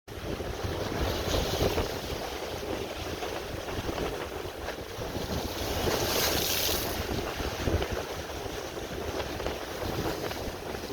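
Wind buffeting the microphone over Lake Michigan waves washing on the shore, with a stronger rush of noise about six seconds in.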